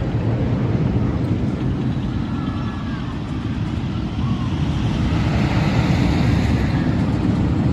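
Roller coaster train rumbling along its track, with wind on the microphone. The rumble swells louder about halfway through as the train nears.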